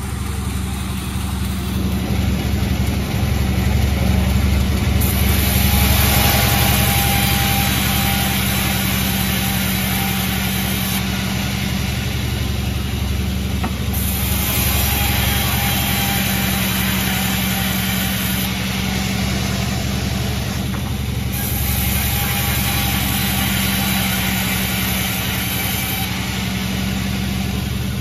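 Sawmill running: a steady engine hum, with a brighter hissing noise that swells and fades about three times as the saw cuts through the wood.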